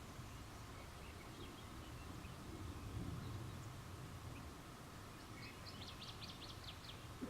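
Night ambience of a faint low rumble, with scattered faint high chirps. About five seconds in comes a quick run of about ten high, sharp chirps from a small bird.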